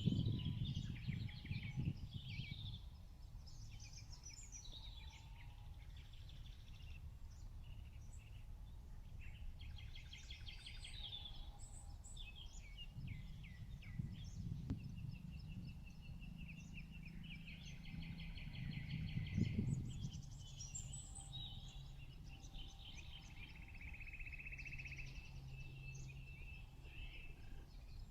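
Several birds singing and chirping, with short calls and a few fast trills, over a steady low rumble that swells briefly near the start and again about two-thirds through.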